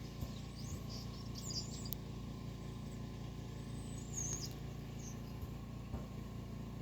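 European starlings calling with short, high, sliding whistles and a few clicks, in two spells, over a steady low hum.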